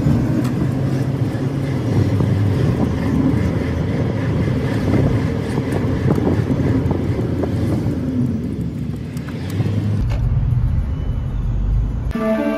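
Steady road noise of a car driving: a low rumble with hiss. Near the end it shifts to a deeper rumble and music starts.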